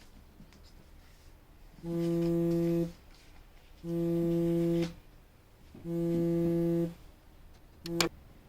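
A steady, horn-like tone of one pitch sounds three times, each for about a second with even gaps, then once more briefly near the end.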